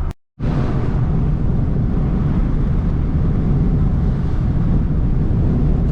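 Steady low rumble of a truck driving in strong wind, heard from inside the cab: road and engine noise mixed with wind buffeting the vehicle. The sound drops out to silence for a moment just after the start.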